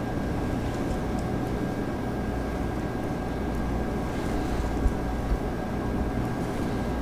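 Steady low rumbling noise with a faint constant high tone through it, and two small knocks about five seconds in.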